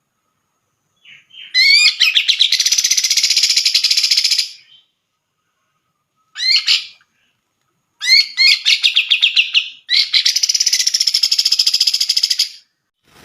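Cucak jenggot (grey-cheeked bulbul) singing in four bursts of loud, rapid, chattering notes. The first starts about a second and a half in, and a short one comes in the middle.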